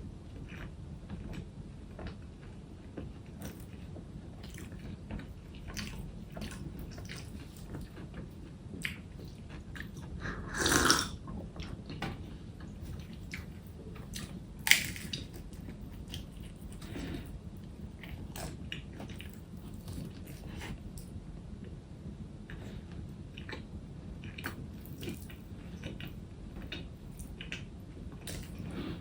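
A person eating, chewing and biting, with many small clicks. There is a louder, brief noisy sound about 11 seconds in and a single sharp click near 15 seconds.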